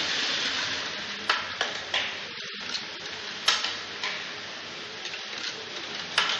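Heavy rain falling, a steady hiss, with a few sharper taps of drops striking close by.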